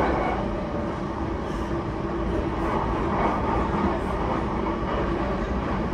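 JR East E233-1000 series electric commuter train running between stations, heard inside the car: steady rumble of wheels on rail mixed with the hum of its Mitsubishi IGBT-VVVF traction equipment, growing a little louder about halfway through.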